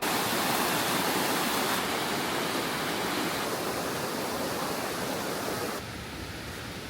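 Steady rush of falling water, a waterfall or mountain torrent, dense and even across high and low pitches. It starts abruptly and drops in level twice, about two seconds in and near six seconds.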